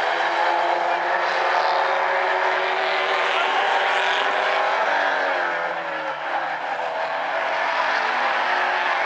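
Several Stinger 8 race cars running together at speed, their engines overlapping. The pitch rises and falls as the drivers accelerate and lift, with a brief lull a little past the middle.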